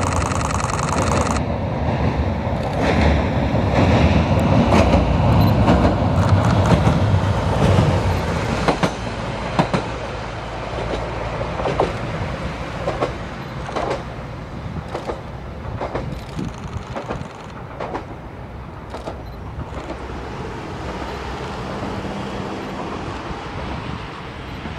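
Tarumi Railway Haimo 295 diesel railcar crossing a steel truss bridge. A heavy rumble from the bridge and train is loudest in the first several seconds, then fades under a run of wheel clacks over rail joints about once a second.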